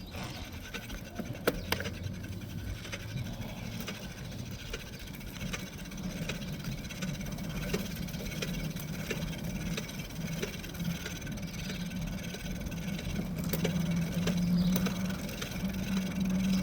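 A small engine running steadily under way, its low hum growing stronger through the second half, with scattered light clicks.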